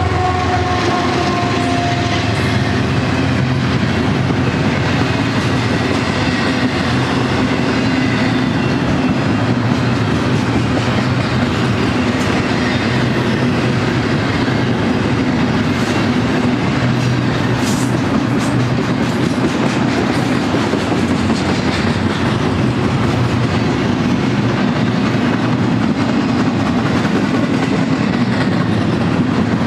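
Double-stack intermodal freight train's well cars rolling past: the steady, loud noise of steel wheels running on the rails. A faint high tone fades out in the first two seconds.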